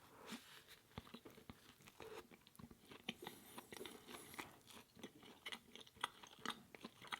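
Faint, close-up chewing: a person eating with soft, irregular mouth clicks and small crunches.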